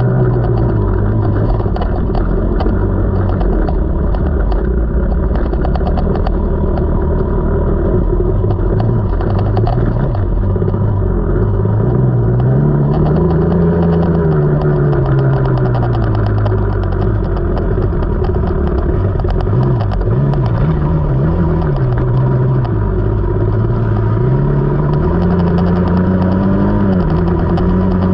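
KTM 300 two-stroke enduro dirt bike engine running under load on a trail, its pitch rising and falling every few seconds as the throttle is opened and closed, with a quick wavering of revs about twenty seconds in.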